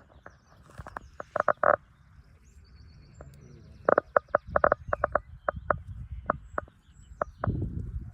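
Frog croaking in runs of short pulses: four quick ones about a second in, then a longer, uneven run of a dozen or so from about four seconds in. Faint high bird chirps and a low rumble lie underneath.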